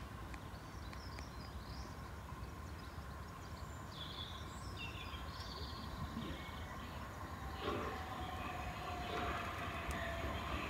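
Birds chirping over quiet outdoor ambience, then an approaching electric passenger train: the rumble and rail noise of its wheels building from about two-thirds of the way in and getting louder toward the end, with a steady hum from its motors.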